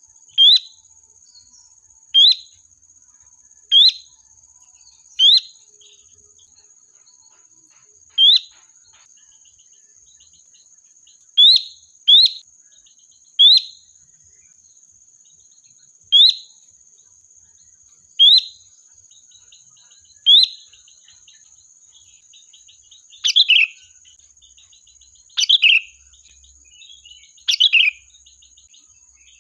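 Sooty-headed bulbul (kutilang) giving short, sharp calls every one to three seconds, about fourteen in all. In the last few seconds the calls turn longer and fall in pitch. A faint steady high-pitched tone runs underneath.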